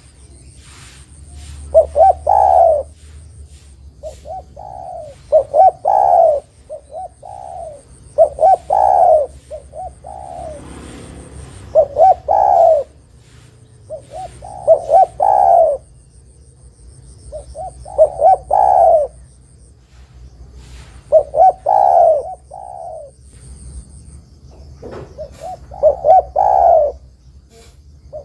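Spotted dove (derkuku, tekukur) cooing its song over and over: a phrase of several coos about every three seconds.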